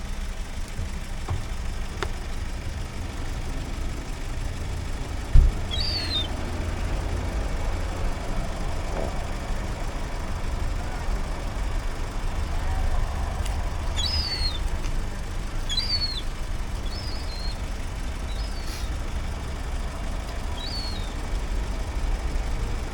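Short, high, falling bird chirps, about seven of them spread from about six seconds in, over a steady low rumble. There is one sharp knock about five seconds in.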